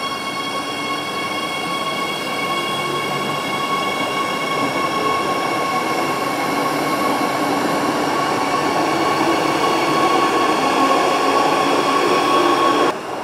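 Electric commuter train moving along the platform: a steady high whine over a rumble that grows slowly louder, then cuts off abruptly near the end.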